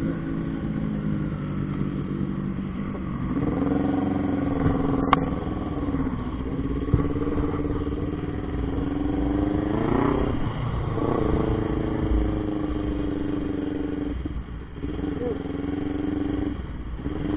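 Motorcycle engine running under way, its pitch rising and dropping back several times with the throttle.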